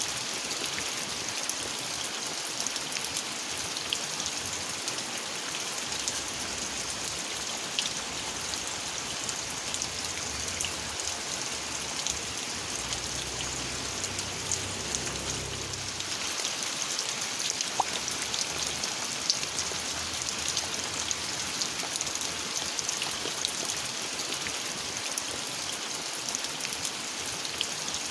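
Steady rain falling, with many separate drops ticking on nearby surfaces. A faint low rumble passes under it about halfway through.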